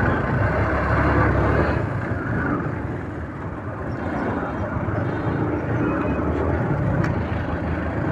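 Motorcycle and surrounding road traffic running: a steady, dense rumble of engines.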